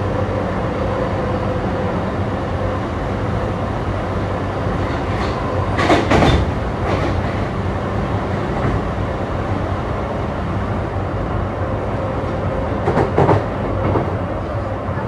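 Running sound of a JR East E235-1000 series electric train heard from inside the car: a steady rolling rumble with a constant motor hum. Short clusters of clacks from the wheels crossing rail joints come about six seconds in and again about thirteen seconds in.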